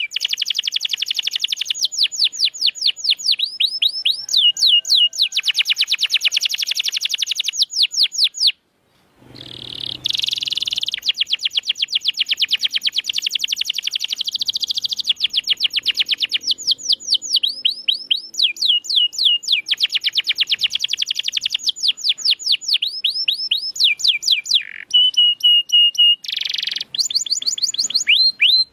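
Domestic canary singing long, rapid trills of repeated high downward-sweeping notes, with a brief break about nine seconds in.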